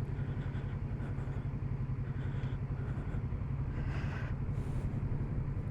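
Kawasaki Z650RS parallel-twin motorcycle engine running steadily at low revs with an even, fast low pulse.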